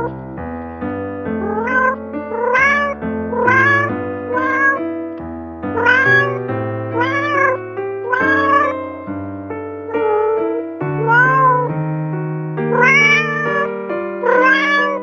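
A cat meowing over and over: short calls that rise and fall in pitch, about two a second, in runs with a brief pause midway. Background music with held chords plays under it.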